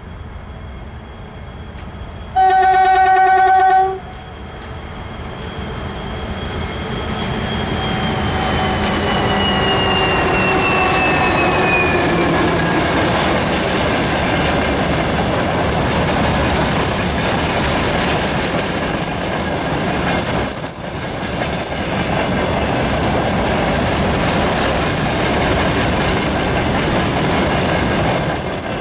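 2TE116 twin-section diesel locomotive sounding its horn once, a single held tone of about a second and a half, then approaching and passing with a whine that falls in pitch as it goes by. It is followed by the steady rumble and clatter of a freight train's wagons rolling over the rails.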